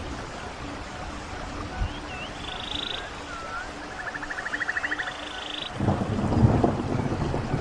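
Songbirds calling over running water: several phrases of a short rising note followed by a fast buzzy trill, between about two and six seconds in. About six seconds in, a louder, low rushing rumble sets in and continues.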